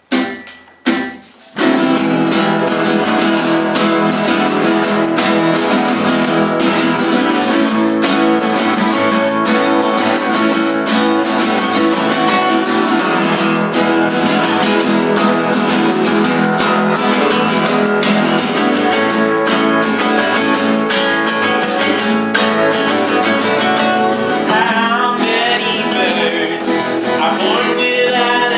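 Acoustic guitar strummed in a steady rhythm, opening a live acoustic song. The first chord is struck and cut short before the playing settles in. A singing voice joins near the end.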